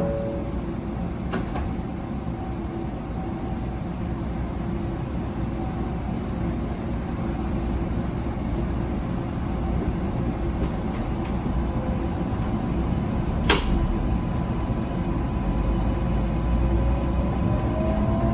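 A 700 series Shinkansen train running, with a steady low rumble that slowly grows louder. A sharp click sounds about two-thirds of the way in, and a faint rising whine comes near the end.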